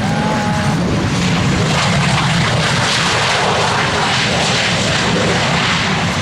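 Airliner engines passing close, a loud steady rushing noise whose upper hiss builds through the middle and eases near the end.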